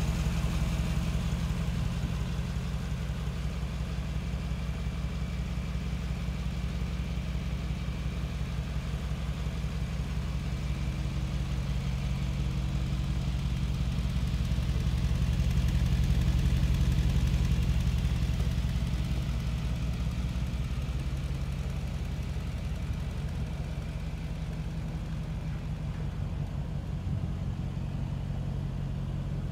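Mercedes-AMG G 63's twin-turbo V8 idling steadily with a low, even rumble, a little louder for a few seconds in the middle.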